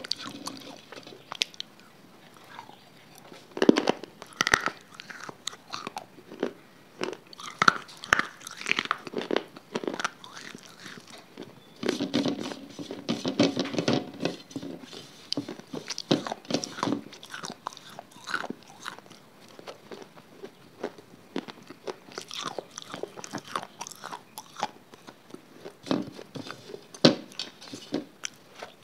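Close-miked eating: a person chewing and crunching food right at the microphone, in irregular bursts of sharp clicks and wet mouth sounds.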